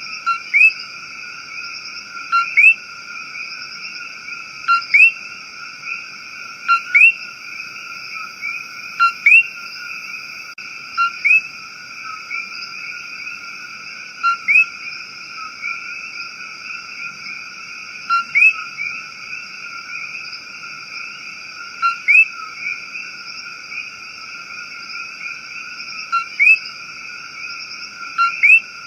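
Rainforest frog chorus: a steady, shrill, many-voiced drone, with a sharp call repeated in quick pairs every two to four seconds.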